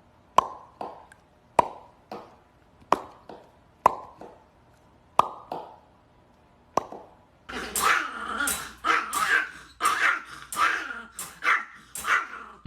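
A dog barking: single sharp barks a second or so apart, then, a little past halfway, a fast continuous run of barks.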